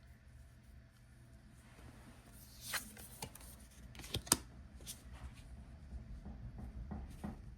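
Paper being handled: a handful of soft rustles and light taps from tarot cards and guidebook pages, the sharpest tap a little past the middle.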